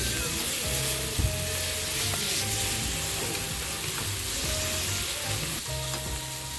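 Food sizzling steadily as it fries, a continuous crackling hiss. Quiet background music with held notes plays under it.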